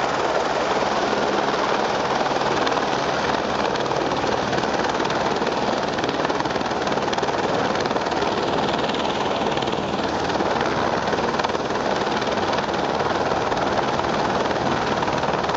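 Helicopter rotor and engine noise, steady and loud, from a firefighting helicopter working close by.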